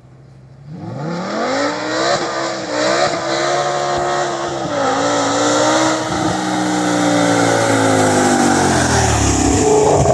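BMW E60 M5's V10 through Meisterschaft catless headers and a Corsa exhaust, accelerating hard: the engine note climbs steeply about a second in, stays high with small dips, and falls away near the end.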